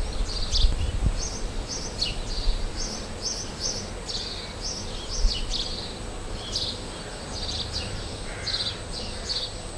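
Small birds chirping, a quick string of short high notes repeated again and again, over a low rumble and a faint steady high whine.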